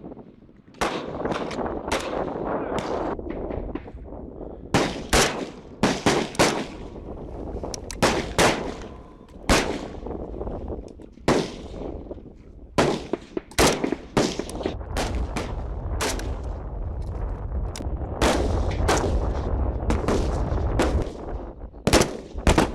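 Rifles firing single shots on a range, several shooters in irregular succession, sometimes a few shots within a second, with a steady low rumble underneath.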